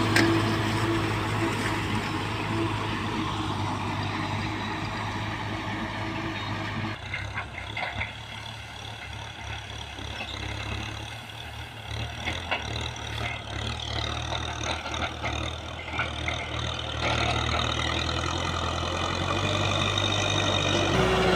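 Small farm tractor's engine running steadily while ploughing; its note changes about seven seconds in and steadies again near the end.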